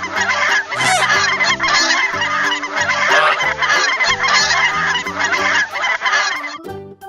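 Geese honking, many calls overlapping, over background music; the honking stops shortly before the end.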